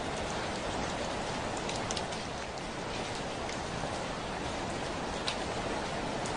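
Steady rain falling, with now and then a sharp tick of a single drop striking the window pane.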